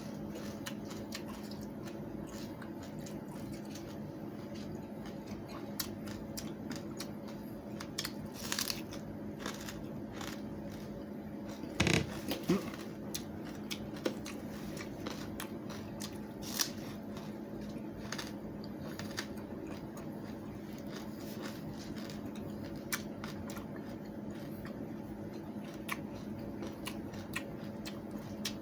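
Watermelon rind being bitten and chewed: irregular crisp crunches, with a few louder bites about a third and halfway through.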